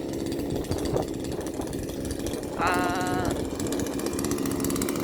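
Gasoline chainsaw engine running steadily while logs are cut to length.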